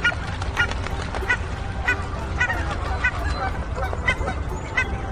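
Geese honking: short, repeated honks at irregular intervals, roughly two a second, over a steady low rumble.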